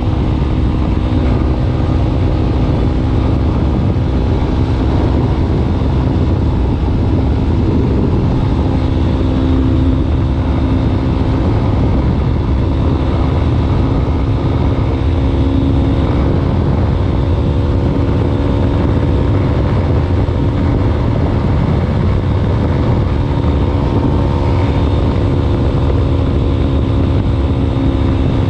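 Yamaha Ténéré 250's single-cylinder engine running steadily through a WACS aftermarket muffler tip, holding an even note with no change in revs.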